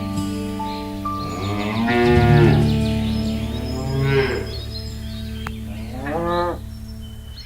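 Cattle mooing: three drawn-out moos that rise and fall in pitch.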